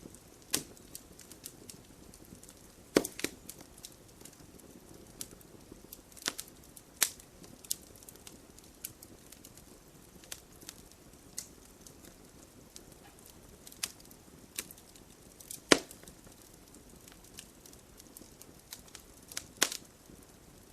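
Wood logs burning in a fireplace: irregular crackles and sharp pops over a soft low hiss of flame, with a few louder pops, the loudest about three quarters of the way through.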